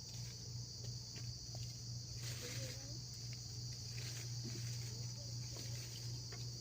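Steady high-pitched insect chorus over a steady low hum, with faint distant voices about two and a half seconds in.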